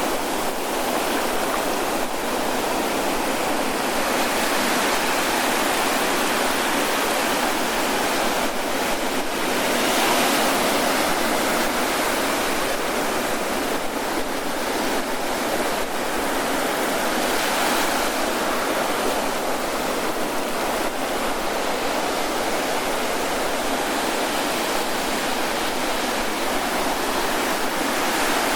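Ocean surf breaking and washing onto a beach: a continuous rush of noise that swells louder about ten seconds in and again near eighteen seconds.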